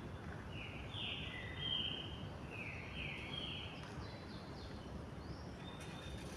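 Double-collared seedeater (coleiro) singing its 'tui-tui' song: a quick run of short, bright notes in the first half, then fainter, higher notes, over steady background noise.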